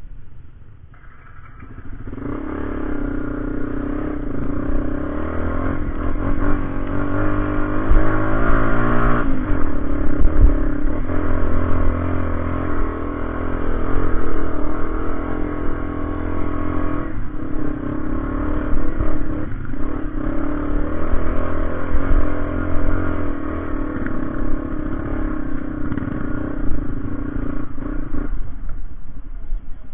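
Motorcycle engine running, growing louder over the first couple of seconds. Its pitch rises and wavers briefly about eight seconds in, then holds steady until it dies away near the end.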